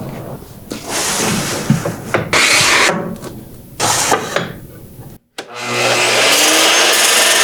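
Workshop tools working wood in several short bursts of noise, with an abrupt cut about five seconds in. After the cut comes a steadier, louder run of machine noise.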